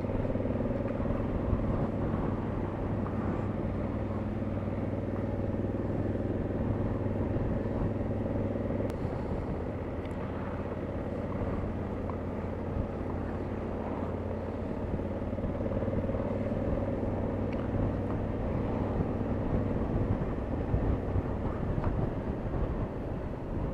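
Motorcycle engine running steadily while riding, over road and wind noise; the engine note shifts about nine seconds in.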